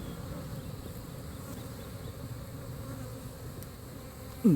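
Honeybees from an open top-bar hive buzzing in a steady hum. Near the end, a brief, louder buzz drops quickly in pitch.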